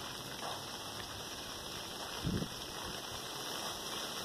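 Steady rain falling as an even hiss. A brief low rumble rises out of it about halfway through.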